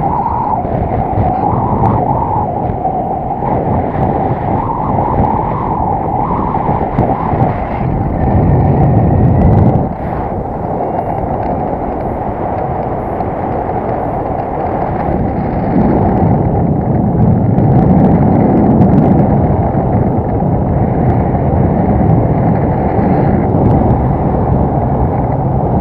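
Wind blowing hard across the microphone during a paraglider flight, a continuous rumbling rush that swells and eases, with a sudden drop about ten seconds in.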